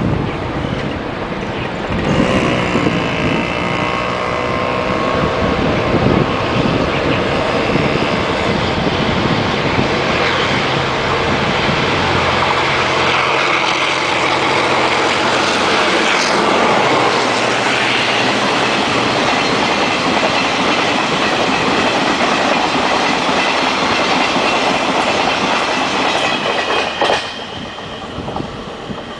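A train passing close by at speed, wheels clacking over the rail joints. The sound rises about two seconds in, holds loud and steady for over twenty seconds, and drops off sharply near the end.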